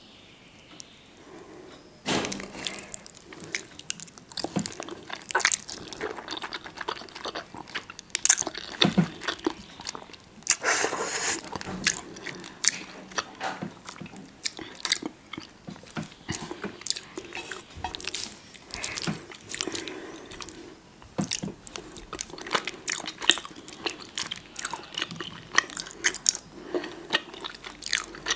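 Close-miked eating sounds: a person biting and chewing food, with irregular crunchy, wet mouth noises starting about two seconds in and carrying on throughout.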